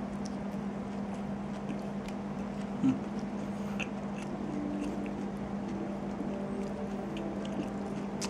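A person chewing a mouthful of fried chicken burger, faint wet mouth clicks over a steady low hum, with one short louder sound about three seconds in.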